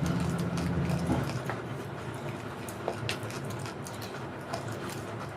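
Eating sounds at the plate: scattered short clicks and smacks of chewing and handling food, with a steady low hum that stops about a second in.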